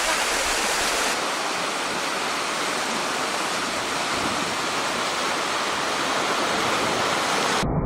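Steady rush of water from a waterfall running down a natural rock water slide. Near the end it cuts off suddenly into a muffled low rumble.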